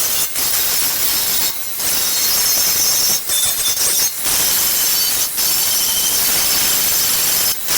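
DeWalt angle grinder scouring a steel tractor tire rim clean: a harsh, steady grinding noise broken by several brief drops as the tool comes off the metal.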